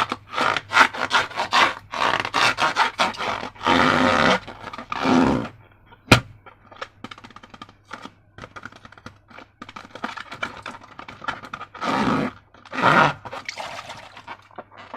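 Slime being squeezed and worked by hand: a run of short sticky crackles and squelches, with one sharp crack about six seconds in.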